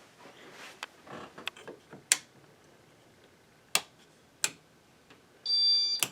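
Several sharp, irregularly spaced clicks, then near the end a brief high-pitched electronic beep lasting about half a second, followed at once by a loud click.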